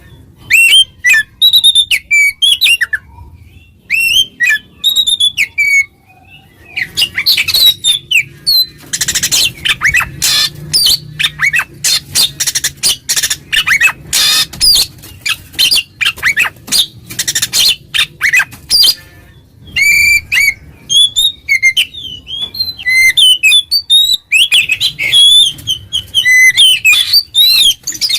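Oriental magpie-robin (kacer) singing loudly in 'ngeplong' style: a fast, varied stream of sharp whistles, chips and harsh notes, broken by a couple of short pauses. This is the challenge song used to call out and provoke rival males.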